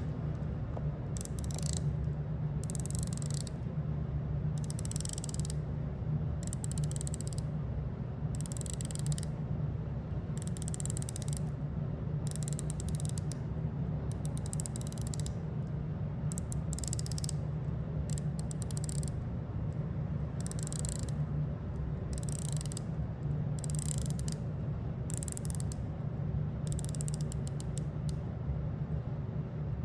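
Black ceramic bezel of a Breitling Superocean Heritage dive watch being turned by hand: repeated runs of rapid, sharp ratchet clicks, each run lasting about a second, with short pauses between, over a steady low hum.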